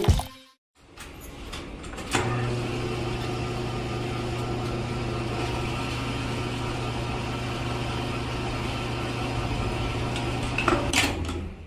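A small electric motor running with a steady hum. It starts about two seconds in and cuts off near the end with a few clicks.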